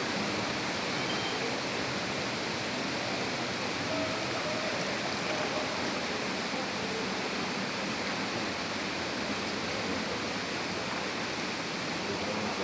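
Steady rushing of water, a continuous even roar of a stream or waterfall in a river canyon.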